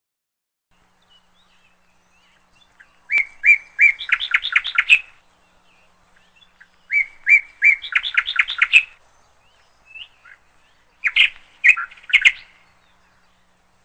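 A songbird singing: two song phrases a few seconds apart, each a few spaced notes followed by a quick run of notes, then a shorter, choppier phrase near the end.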